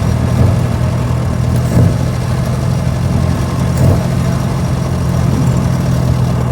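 Small four-cylinder side-valve engine of a 1924 Austin Seven Chummy running steadily as the car drives, with two brief knocks about two seconds apart.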